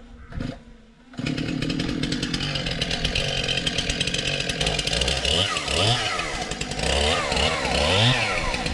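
Two-stroke chainsaw that comes in suddenly about a second in and keeps running, revving up and down repeatedly over the second half.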